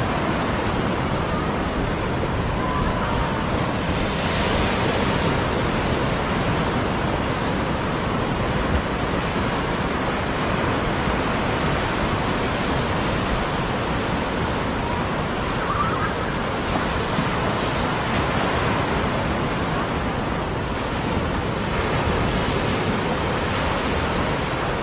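Sea waves breaking and washing up the beach in a steady surf roar that swells every few seconds, with wind on the microphone.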